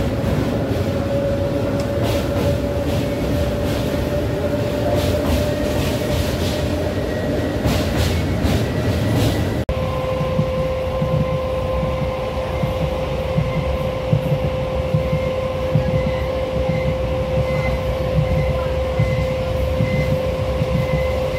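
Indian passenger express train running at speed, heard from inside a coach with the window open: a steady rumble of wheels on rail under a steady humming tone. Through the first half there are irregular sharp clacks of the wheels over rail joints. About halfway through the sound changes abruptly, and the rumble and hum carry on.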